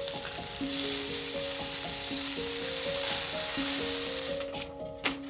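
Food sizzling in a hot pan, a loud steady hiss that drops away about four seconds in, followed by a few sharp pops and crackles. A soft melodic music bed plays underneath.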